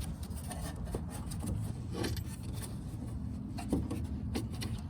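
A wrench working the nut that holds the door's quarter window glass, giving a few light clicks and knocks about two seconds in and again near the end, over a steady low hum.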